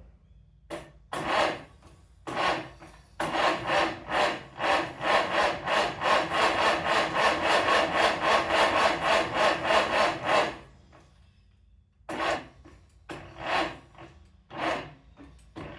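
Farmall Cub Lo-Boy tractor engine being cranked by its starter without catching: a few short bursts, then about seven seconds of slow, even cranking at roughly three strokes a second, then a few more short bursts. The slow cranking fits the owner's worry that his battery may need charging and his jumper cables may not be good enough.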